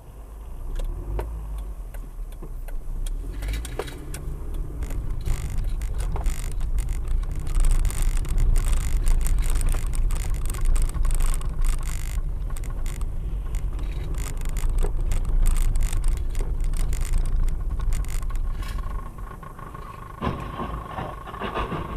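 Car on the road, heard through a dashcam: a steady low rumble of road and engine noise with many small rattles and knocks, easing off near the end.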